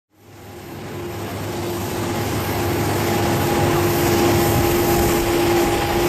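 Airbus A330 jet engines running: a steady, loud rush of noise with a droning tone held through it, fading up from silence at the start.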